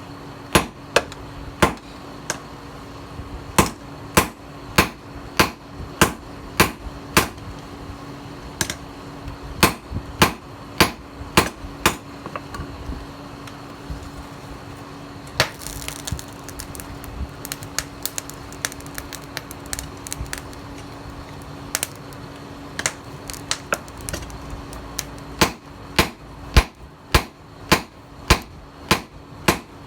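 Hand hammer striking the steel of a tiller blade on an anvil as it is forged into a knife, in runs of sharp blows at roughly two a second. The blows thin out to a few scattered strikes in the middle, then pick up again near the end, over a steady low hum.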